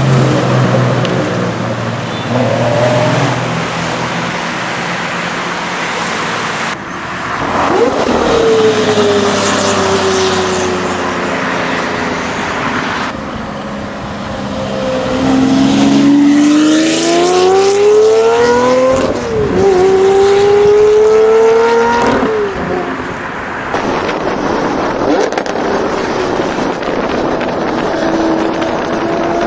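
Lamborghini Murcielago V12 engine through an IPE exhaust, loud throughout. Its note climbs twice in the middle as it revs up, and the sound changes abruptly a few times.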